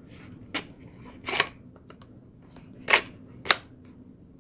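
Four short sharp plastic clicks and knocks from the cordless stick vacuum being handled while its motor is off, the loudest about three seconds in.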